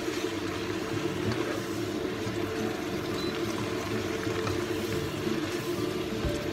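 Water spinach sizzling as it is stir-fried in a wok, with a spatula and spoon scraping and tapping the pan, over a steady low hum.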